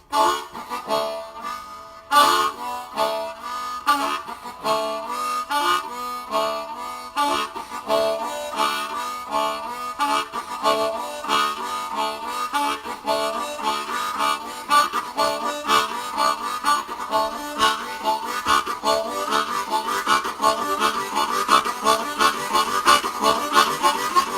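Blues harmonica playing a rhythmic pattern of short repeated chords and notes, which come faster and thicker in the second half.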